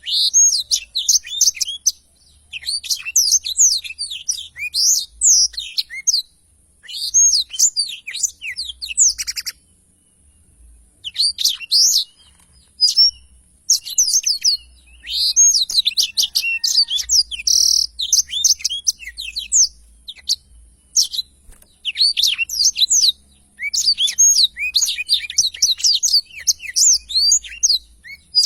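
Black-throated canary (blackthroat) singing long rolling phrases of rapid, high twittering chirps, several seconds at a time with short pauses between.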